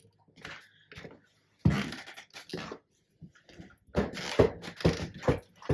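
Irregular knocks, scrapes and rustling from hands-on demolition of rotted wall framing and insulation: a loud scrape about a second and a half in, then a quick run of knocks and scrapes near the end.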